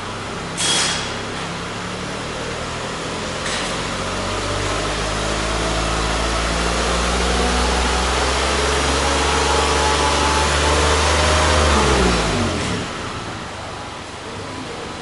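Toyota Alphard 350S's 3.5-litre V6 running at a steady raised speed that grows gradually louder. About twelve seconds in, the revs fall away and it settles back to a quieter idle.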